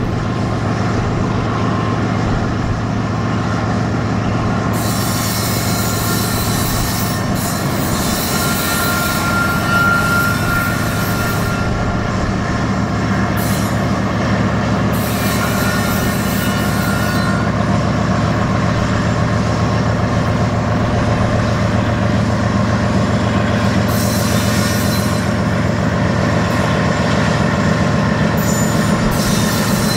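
BNSF freight train rolling past with a steady low rumble, its wheels squealing and hissing in several bursts, one a thin high squeal lasting a couple of seconds about ten seconds in.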